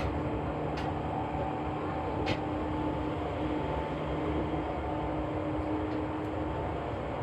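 Seibu New 2000 series electric train running at speed, heard from on board: a steady rumble of wheels on rail with a steady motor hum, and a couple of sharp clicks in the first few seconds.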